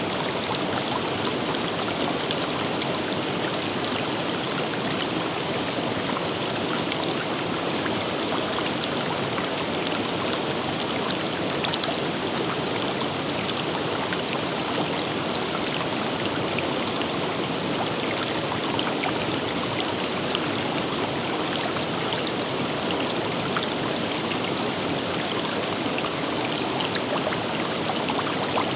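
River water flowing steadily over rocks, an even rushing with small splashes and trickles through it.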